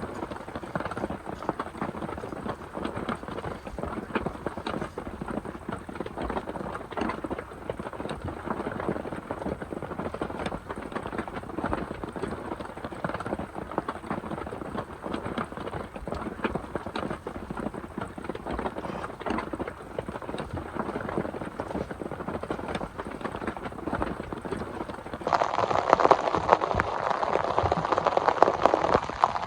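Rain falling, with many separate drops ticking on a nearby surface. Near the end it changes suddenly to louder, denser rain.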